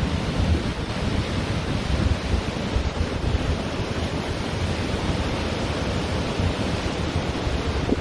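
Ocean surf washing on a beach, a steady rushing noise, with wind buffeting the microphone in low rumbles.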